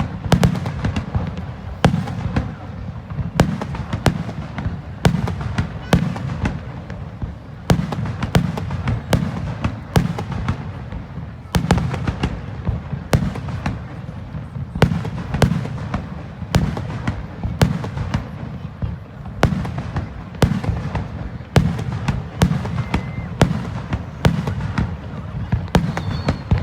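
Aerial fireworks bursting in a steady barrage, one or two sharp bangs a second over a continuous low rumble of booms.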